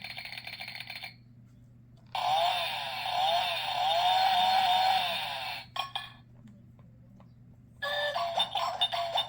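Sound book's electronic sound chip playing short button clips one after another. A loud warbling, wavering tone lasts about three and a half seconds, then after a pause a jingly tune of quick repeated notes starts near the end.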